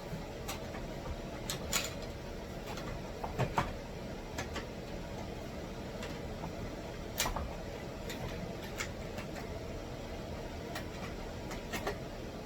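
Plastic filters and parts of a backpack vacuum being handled: scattered light clicks and knocks, the sharpest about two, three and a half and seven seconds in, over a steady background hum.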